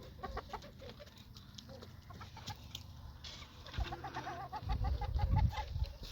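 Chickens clucking, with a quick run of repeated calls about four seconds in, over a low rumble.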